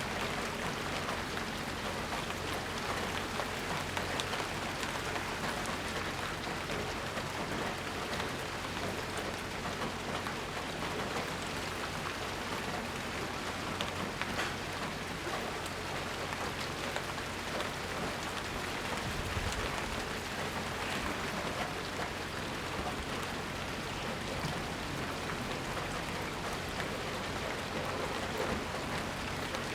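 Steady rain falling, with scattered drops pattering on surfaces and no thunder.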